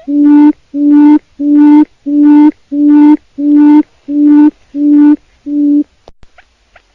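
Wild quail (chim cút rừng) call: a series of about nine identical low hooting notes, each about half a second long, repeated evenly about three times every two seconds, stopping about six seconds in.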